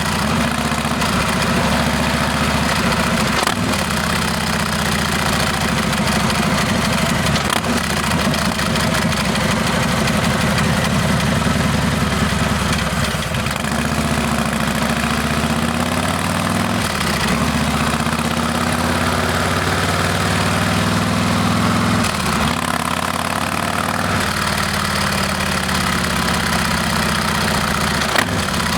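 Harley-Davidson Heritage Classic's Milwaukee-Eight V-twin running through a Rinehart exhaust. Its pitch rises and falls several times, with brief dips between.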